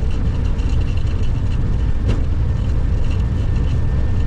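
Steady low rumble of a Boeing 737 flight deck on the ground: engines and airframe noise as heard in the cockpit, with one sharp click about two seconds in.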